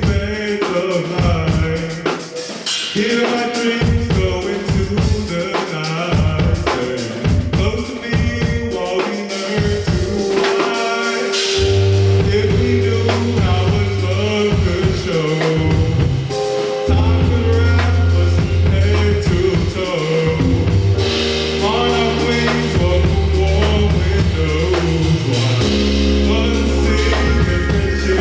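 Live band playing a song with drum kit, bass and vocals. Sustained bass notes come in strongly about a third of the way through.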